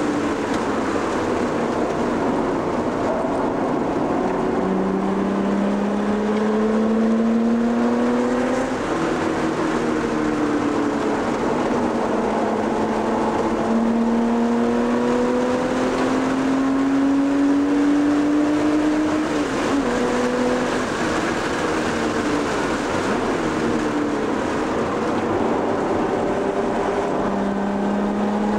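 Porsche engine under hard acceleration on a racetrack, heard from inside the cabin: the pitch climbs through each gear and drops at the upshifts, with lifts between the straights, over steady tyre and road noise.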